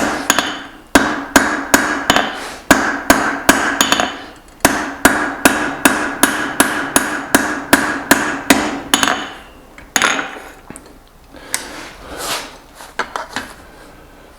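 Hammer blows on hot steel at the anvil, forging the faces of a small hammer head, with the anvil ringing on each strike. They come at about two to three a second, with a brief pause about four seconds in. After about nine seconds they thin to a few scattered, lighter blows.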